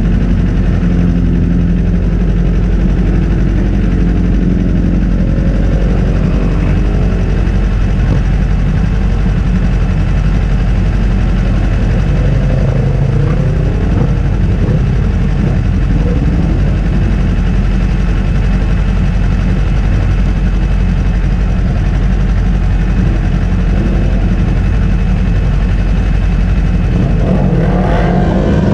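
Kawasaki Ninja 400's parallel-twin engine running at low, steady revs, with other engines rising and falling in pitch now and then. Near the end the revs climb.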